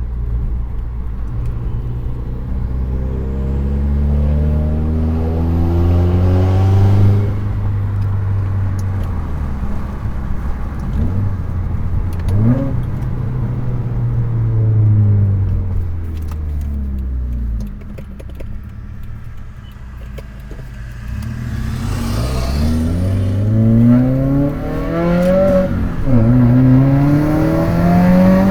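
2015 Subaru WRX's turbocharged 2.0-litre flat-four under way through a loud catted J-pipe and straight-through 3-inch catback exhaust, heard from inside the cabin. The engine note climbs and drops back several times at gear changes, eases off to a quieter spell past the middle, then climbs again through two more shifts near the end.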